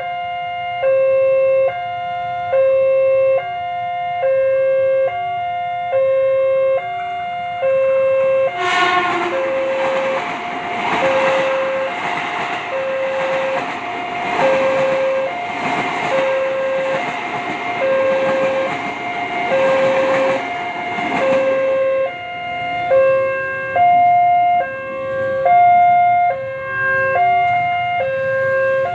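Railway level-crossing warning alarm sounding a two-tone alternating chime, about two tones a second. About nine seconds in, a train passes at speed through the crossing, its wheels on the rails loudly drowning the alarm for some thirteen seconds. Then the alarm rings on alone.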